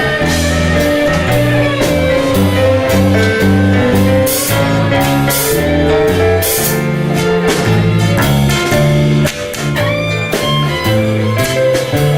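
Live band playing an instrumental passage of an old tango between sung verses: a bass line and guitar chords under a held lead melody, with steady drum strokes.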